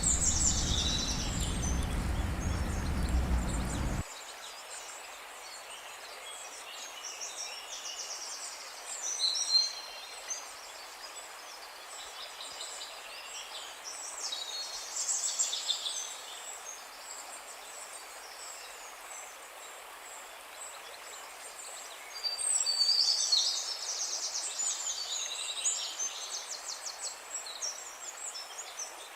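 Wild birds calling and singing in short high chirps and rapid trills, with a louder run of trilling song late on. A low steady rushing noise underlies the first few seconds and cuts off abruptly.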